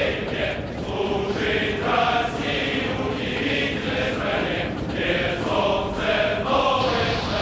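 Massed voices chanting in unison, in a steady repeating rhythm.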